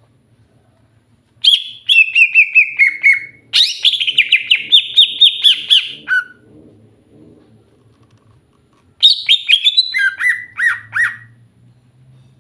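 Green leafbird (cucak hijau) singing in three loud bursts of rapid chattering notes, many sweeping down in pitch, with short pauses between. A faint low hum runs underneath.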